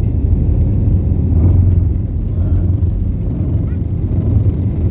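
Steady low drone of an airliner's engines and airflow heard inside the cockpit in flight.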